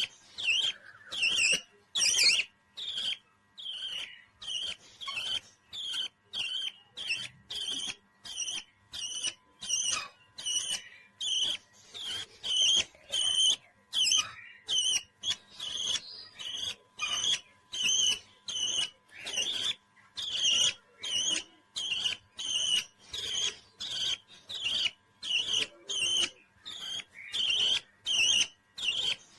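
Pet parrot calling over and over in short, shrill chirps, repeated evenly at a little under two a second.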